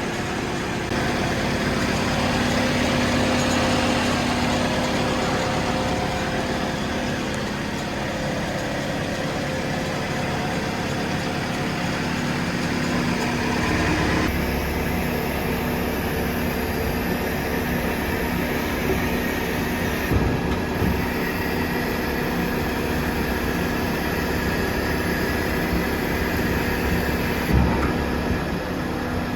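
Asphalt paver's diesel engine running steadily with a constant hum. About halfway through the sound shifts, deeper and with a hiss added on top.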